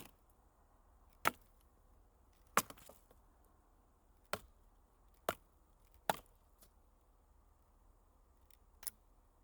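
A series of sharp, short cracks or knocks, seven in all at uneven gaps of about one to two seconds, over a faint steady background.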